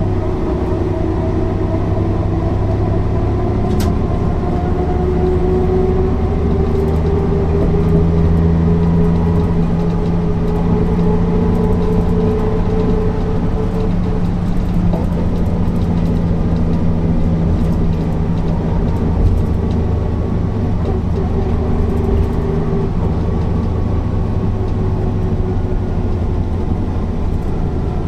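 Mercedes-Benz O408 city bus's horizontal six-cylinder diesel running under way, its pitch climbing slowly as the bus pulls, easing off around the middle, then building again.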